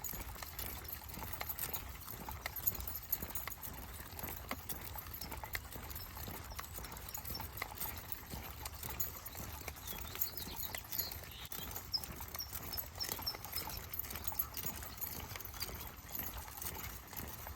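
Footsteps of a person and a pack of dogs walking on a trail: a steady, irregular patter of many short steps, with a few faint high chirps about ten seconds in.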